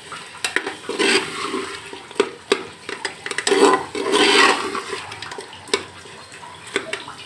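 Meat and sliced tomatoes sizzling in oil in an aluminium pot while a metal slotted spoon stirs them, with sharp clicks and scrapes of the spoon against the pot. The sizzle swells twice, about a second in and around the middle.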